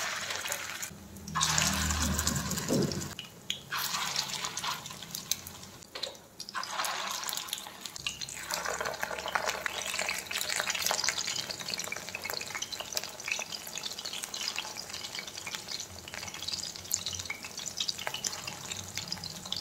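Chicken cutlets shallow-frying in hot oil in a pan: a steady sizzle and crackle, broken by a few short gaps. A louder low hum rises briefly about two seconds in.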